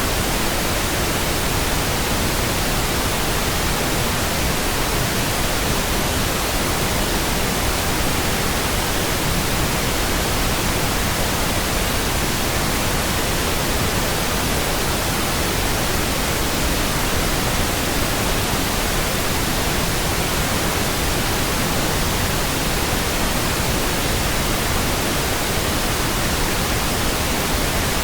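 Steady, continuous pink noise: an even hiss across all pitches, with no changes or sudden sounds.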